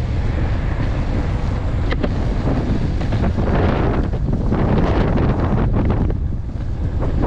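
Strong wind buffeting a GoPro's microphone during an electric skateboard ride: a heavy, steady rumble with a short sharp click about two seconds in.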